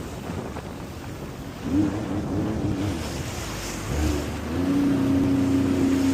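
Jet ski engine running over the water, its note wavering, then rising as the throttle opens about four seconds in and holding steady and louder.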